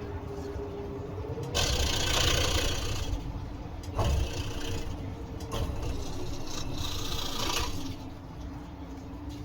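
Scroll saw running with a steady motor hum, its reciprocating blade cutting through wood in louder rasping spells. There is a single thump about four seconds in.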